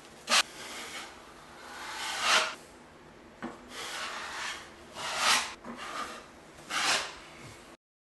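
Drywall knife scraping joint compound across a taped drywall patch: a short scrape, then about four longer spreading strokes a second or two apart.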